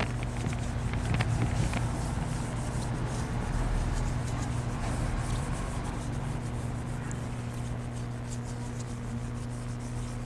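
Hand scrubbing and rubbing on a clutch flywheel's friction face to remove glazed clutch-disc residue that was making the clutch slip. Underneath is a steady low hum.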